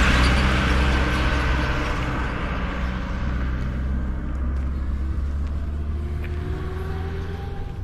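A motor vehicle's engine running with a steady low hum. It is loudest at first and fades steadily as the vehicle moves away.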